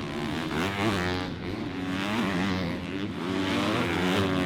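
Several motocross bikes' engines revving at once, their pitches rising and falling as the riders work the throttle.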